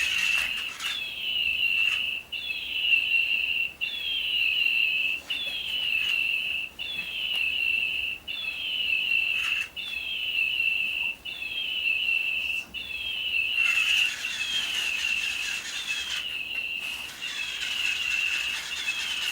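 Electronic toy bird chirping in a repeating loop: a run of high falling tweets, cut by a brief gap about every second and a half. A rustling hiss joins after about fourteen seconds.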